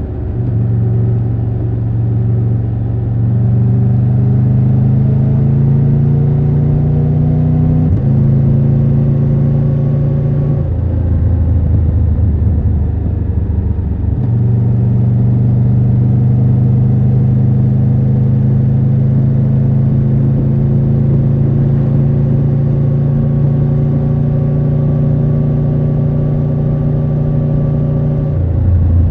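Triumph Tiger 1200 Rally Pro's inline three-cylinder engine under way. It pulls up in pitch for several seconds, then shifts up. It eases off for a few seconds and then holds a steady cruising note until the throttle closes near the end.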